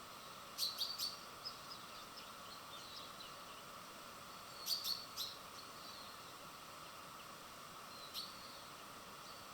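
Small birds chirping at a feeder: short high chirps in quick groups of two or three, heard three times, with a few fainter calls between, over a steady faint background hiss.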